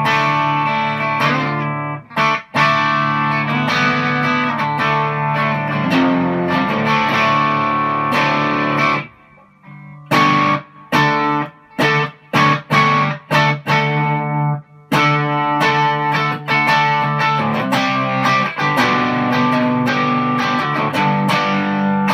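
Fender Stratocaster on its bridge pickup, driven through a JHS-modded Electro-Harmonix Soul Food overdrive into a guitar amp and heard through an iPhone 6's built-in microphone, playing overdriven chords. Ringing held chords break off about nine seconds in, give way to a run of short choppy stabs, then ringing chords return.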